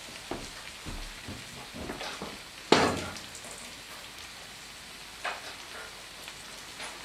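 Food frying in a pan with a steady faint sizzle, broken by a few short knocks and clicks. A louder clunk comes about three seconds in.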